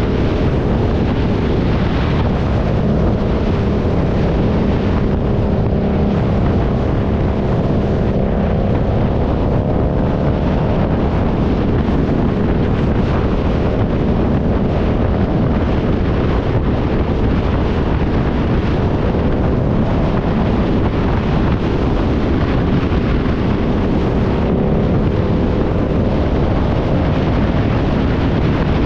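A motorcycle engine running at a fairly steady speed on the move, half buried under heavy wind rumble on the microphone.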